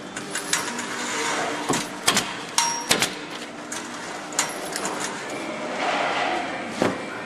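Assembly-line workshop clatter: a run of sharp metallic clicks and knocks of tools and parts, one of them ringing briefly with a ding about two and a half seconds in, over a steady hum of the plant.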